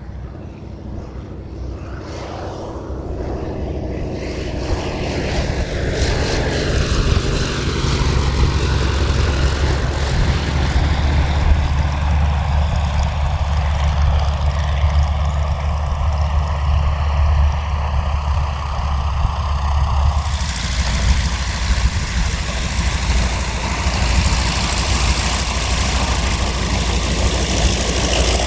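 Piston-engined propeller airplane running, growing louder over the first several seconds and then holding steady with a strong low drone. About two-thirds of the way in the sound cuts abruptly to another aircraft's engine running steadily: an AT-6 Texan's Pratt & Whitney R-1340 radial.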